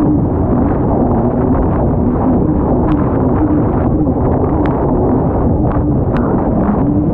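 Kawasaki STX-160 jet ski's four-stroke engine running hard at speed, its note wavering slightly up and down, under heavy wind buffeting on the microphone and water rush, with a few brief sharp ticks.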